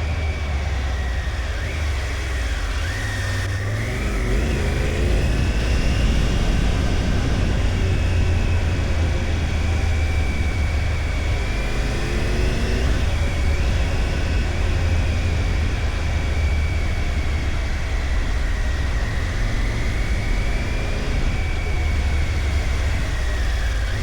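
Motorcycle riding with its engine running under a heavy steady rumble of wind on the microphone. A thin whine wavers slowly in pitch, and the revs rise and fall briefly a couple of times.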